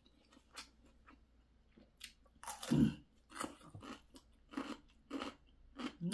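Close-miked chewing of a mouthful of ramen noodles, with irregular wet mouth clicks and smacks.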